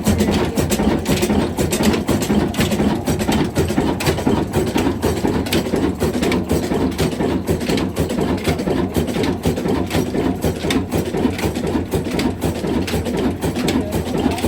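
Diesel engine running steadily after a hard cold start, with a dense clatter of rapid knocks.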